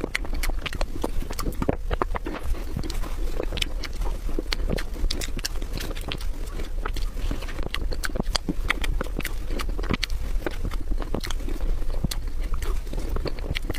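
Close-miked chewing and lip smacking on soft chocolate mousse cake: a steady run of irregular wet mouth clicks.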